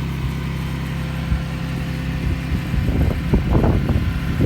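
Cummins turbo diesel engine of a Dodge Ram 5500 service truck idling with a steady low hum. From about three seconds in, some short irregular sounds rise over it.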